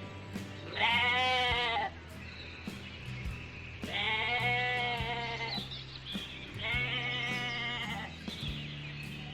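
A sheep or goat bleating: three long, wavering bleats a couple of seconds apart, over background music with low held notes.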